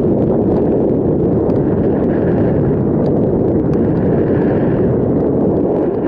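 Wind buffeting the microphone of a moving bicycle's camera: a loud, steady, low rumble.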